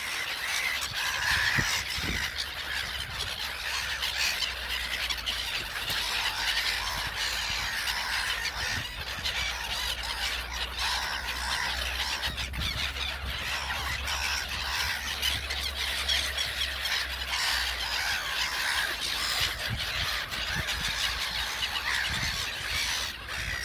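A large flock of gulls calling at once, many overlapping squeals and cries in an unbroken din, over a steady low rumble.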